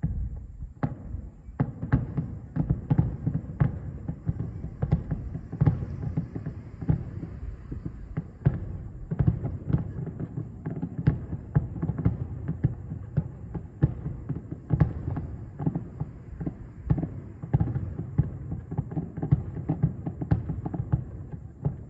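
Distant fireworks barrage: a rapid run of sharp bangs, about three a second, over a dense low rumble, which dies away at the end.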